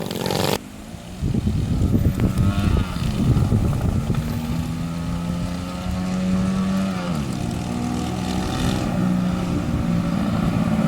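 A homemade go-kart's engines are running: a Chinese 90cc three-speed and a single-cylinder Predator 212cc. For the first few seconds the firing is ragged and uneven, the Predator misfiring because its carburettor float bowl is coming loose. The engine note then steadies, and drops in pitch about seven seconds in.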